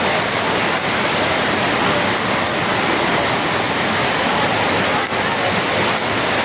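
Heavy tropical downpour: a loud, dense, steady wash of rain and running water.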